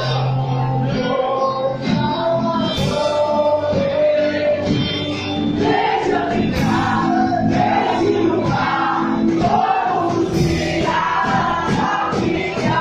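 Gospel music: voices singing together over instrumental accompaniment, with a steady rhythm.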